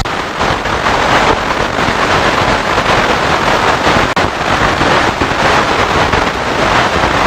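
FM radio static: a steady, loud hiss with faint crackling, as from a receiver tuned to a frequency with no clear station.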